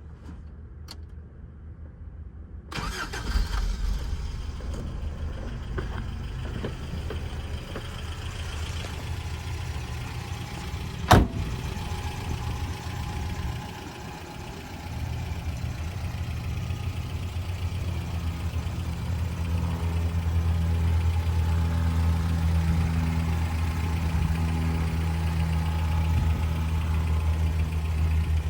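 1985 Toyota SR5 pickup's engine starting about three seconds in, then idling steadily, settling into a fuller, even idle in the second half. A single sharp bang comes near the middle.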